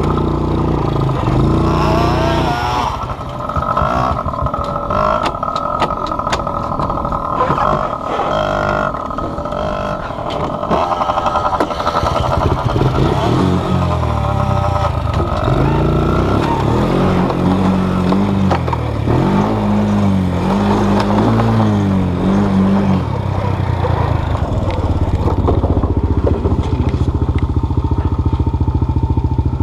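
Small off-road vehicle engine running under way, heard up close from the rider's chest, its revs rising and falling repeatedly.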